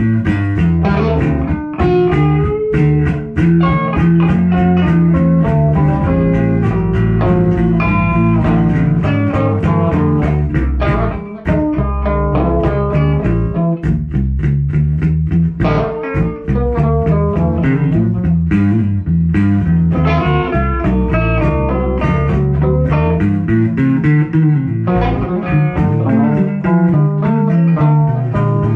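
Instrumental blues-style music: a guitar picking a busy run of notes over a bass guitar line.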